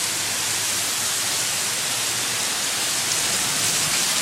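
Heavy downpour of rain: a dense, steady hiss of rain falling hard.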